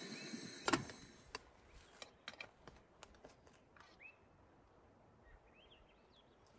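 A sharp clack less than a second in, then faint scattered ticks and small birds chirping: one call about four seconds in and a short run of chirps near the end.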